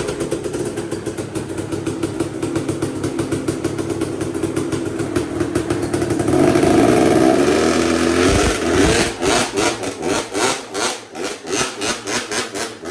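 Motorcycle engine held at high revs for a burnout, spinning the rear tyre on a concrete floor; the revs build to their loudest a little past the middle, then fall back into uneven blips near the end.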